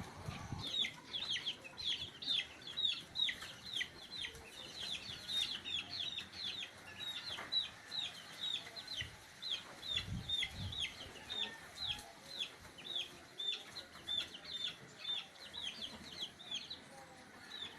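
A bird cheeping over and over: short, high peeps that fall in pitch, about two to three a second, without a break.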